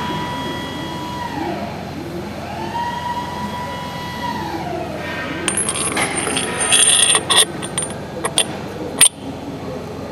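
A small motor whining, winding down, spinning up again and winding down a second time. This is followed by a run of sharp metallic clicks and clinks with a bright ringing, like small metal parts being handled.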